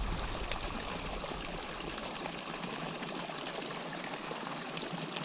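Steady pouring and splashing of water running into a pond from an inflow after a rain.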